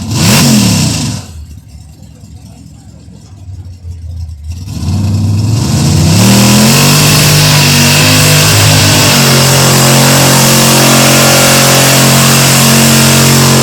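Competition vehicle's engine blipped twice, then brought up through the revs and held at full throttle, loud and steady, as the run gets under way.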